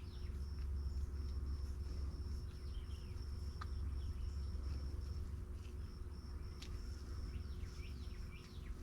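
High-pitched chirping repeating in quick, even pulses, like a cricket, over a steady low rumble.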